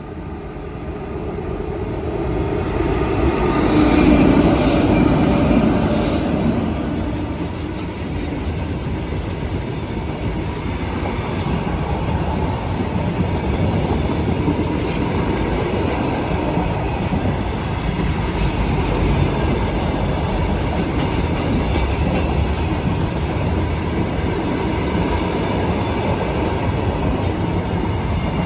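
Fully loaded coal goods train with two locomotives passing. The sound swells to its loudest about four seconds in, then settles into a steady rumble and clatter of loaded wagons rolling by, with brief high wheel squeals now and then.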